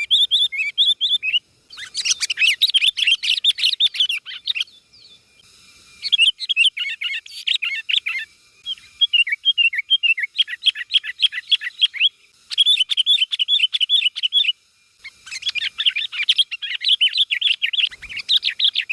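Bird chirping in quick runs of short, high notes, several a second, in bouts of a few seconds with brief pauses between.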